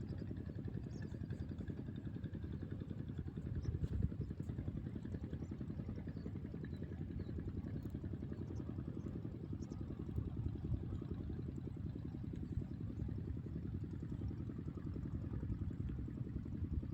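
A small engine running steadily at idle, a fast, even low chug with a couple of faint knocks.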